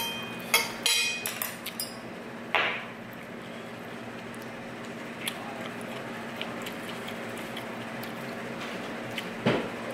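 Metal cutlery clinking against a dish several times in the first second and a half, with a ringing tone after each strike, then faint scattered clicks of eating and a soft knock near the end.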